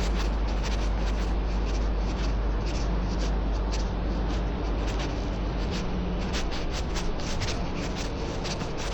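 City street ambience: a steady low rumble under a wash of noise, dotted with many small clicks.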